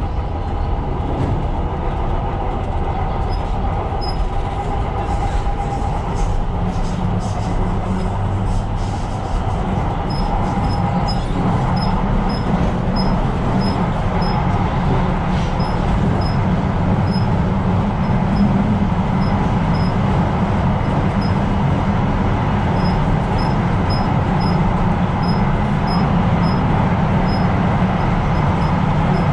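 Tyne & Wear Metrocar running at speed on the rails, heard from the driver's cab as a steady rumble of wheels and motors. A faint high ticking repeats about twice a second through much of the second half.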